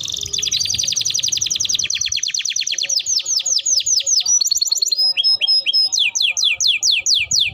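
Domestic canary singing a long, loud rolling song. A very fast trill of repeated notes gives way about three seconds in to slower falling sweeps, a short held whistle, then rapid downward-sweeping notes.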